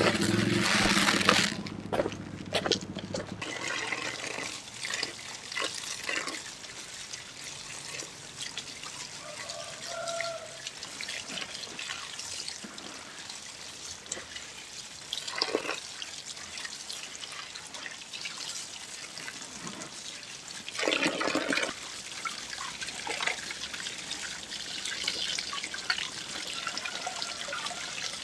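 Water pouring and trickling, with a few louder gushes: one at the start, one about halfway through and one about three-quarters of the way in.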